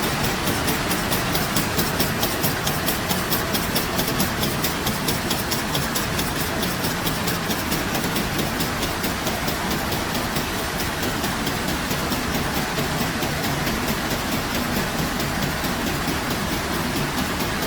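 A machine running steadily, with a fast regular ticking of about six a second over a constant mechanical noise.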